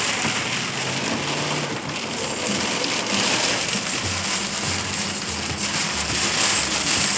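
Heavy storm rain pouring steadily, a dense even hiss.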